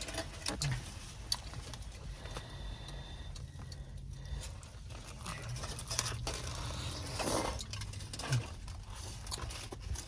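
Hot calzone being handled and torn open, giving scattered rustles, small crackles and clicks, over a steady low hum.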